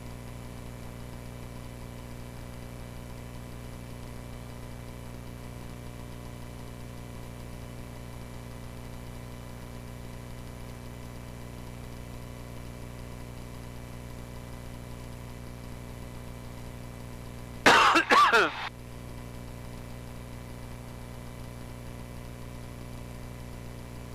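Light aircraft engine idling steadily, heard as an even hum through the cockpit intercom while the plane holds on the runway. About three-quarters of the way through, a loud, garbled burst of radio transmission lasts about a second.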